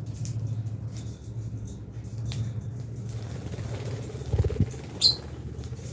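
Lovebirds chirping: scattered short, high chirps over a steady low hum, with a soft thud and then one sharp, loud call near the end.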